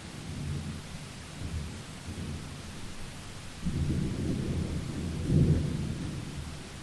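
Thunder rumbling over steady rain, swelling to a loud peak about five seconds in and then fading.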